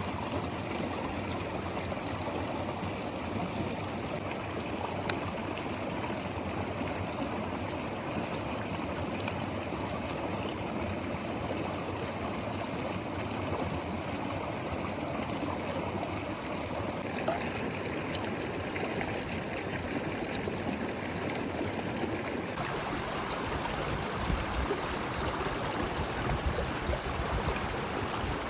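A river flowing, a steady rush of water. About three-quarters of the way in, the sound turns deeper and more uneven.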